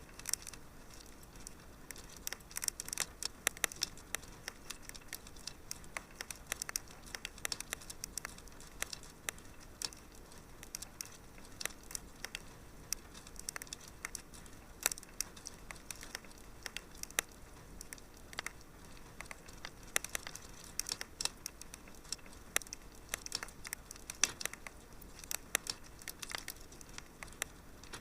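Wood fire crackling in a fireplace: a continuous run of small, irregular pops and snaps over a faint hiss.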